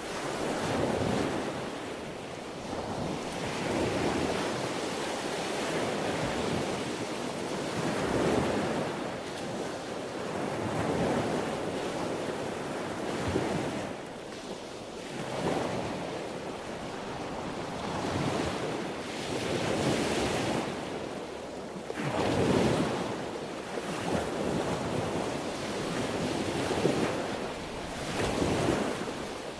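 Sea waves breaking and washing in, swelling and easing every few seconds.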